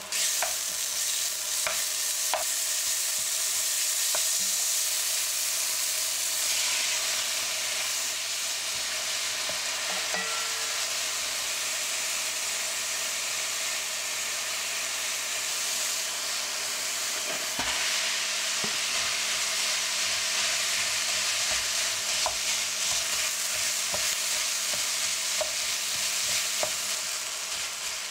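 Food sizzling and frying in a nonstick pan while it is stirred with a wooden spatula: the sizzle jumps up at the start as bacon is slid onto the frying green onion, and carries on as kimchi and then rice are stir-fried, with occasional light clicks of the spatula on the pan.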